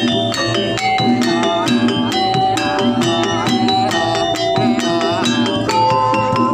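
Jaranan ensemble music: a fast, dense beat of drums and percussion, with pitched metal percussion repeating a short melody.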